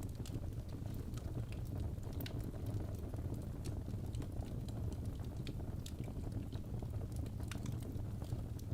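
Wood fire crackling in a fireplace: a steady low rumble of flames with frequent small, irregular pops and snaps of burning logs.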